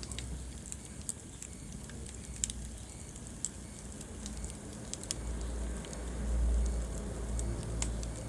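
Wood fire burning in a fireplace, crackling with scattered sharp pops over a soft hiss. A low rumble of the flames swells in the second half.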